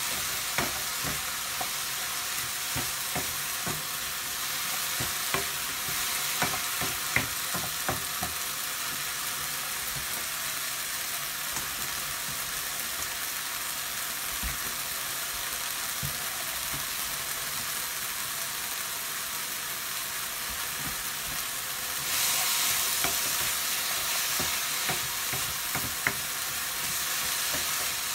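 Chopped onions, chilli and sugar snap peas sizzling steadily in a frying pan on a gas hob. A wooden spatula scrapes and taps the pan during the first several seconds and again near the end. The sizzle gets louder a little after twenty seconds in.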